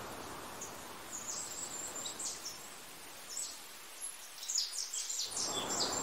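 Small birds chirping in short, high notes: a few about a second in and a quick run of them near the end, over a steady hiss of wind that fades out a little past the middle and comes back just before the end.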